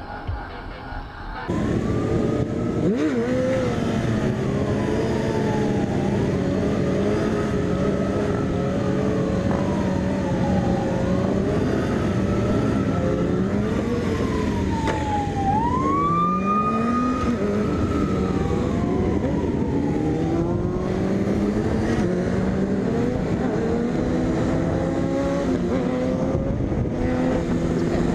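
Siren wailing, rising and falling every few seconds, over a car engine running and revving, typical of a police chase.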